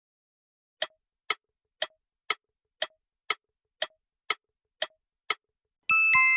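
Clock-tick sound effect, about two ticks a second for ten ticks, counting down a pause. A louder two-note chime follows near the end.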